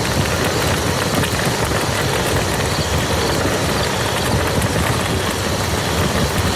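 Rain falling on a muddy field: a steady, dense patter of many drops.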